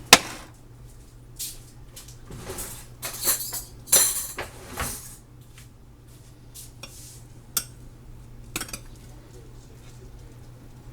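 Dishes and cutlery clattering and clinking in a string of separate knocks, the loudest right at the start, over a steady low hum.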